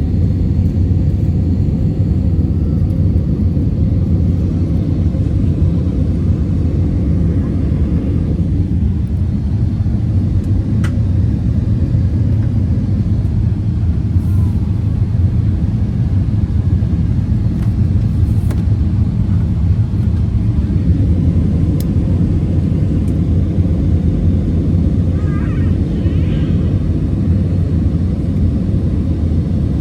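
Steady low rumble of engine and airflow noise inside the cabin of an Airbus A320 climbing after takeoff.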